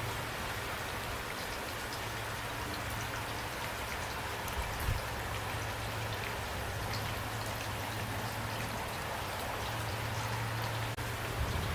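Steady rain falling, with a constant patter of individual drops ticking over the hiss and a low steady rumble underneath.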